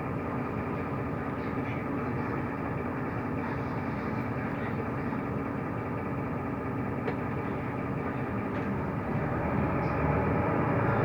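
Mercedes-Benz O345 Conecto LF city bus driving, heard from inside: a steady engine drone and road rumble that grows louder near the end.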